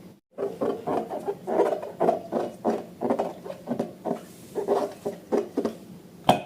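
Slime being squeezed and kneaded by hand, a run of wet squelches about twice a second, with a sharp click near the end.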